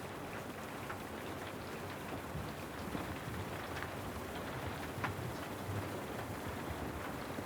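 Steady rain falling, an even hiss with scattered sharp ticks of drops landing.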